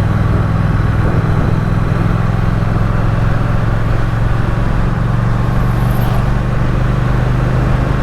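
Triumph Speed Twin's parallel-twin engine running at a steady cruise, heard from on board the motorcycle with wind and road noise rushing over the microphone.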